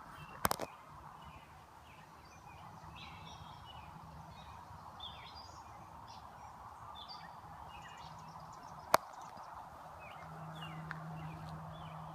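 Outdoor ambience with small birds chirping on and off, over a steady low hum that strengthens near the end. A few sharp clicks come just after the start, and one loud click comes about nine seconds in.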